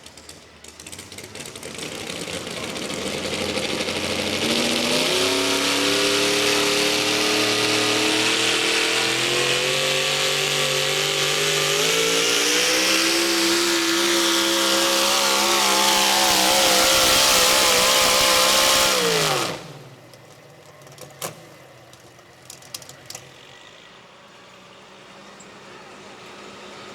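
Modified 4x4 pulling truck's engine at full throttle down the track, its pitch climbing in steps as it pulls the sled, then cutting off suddenly about nineteen seconds in. A few sharp knocks follow.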